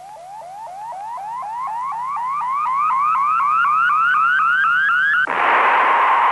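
Electronic sound effect: a rapid train of rising chirps, about four a second, climbing in pitch and growing louder, that switches at about five seconds to a steady rushing hiss with a tone in it.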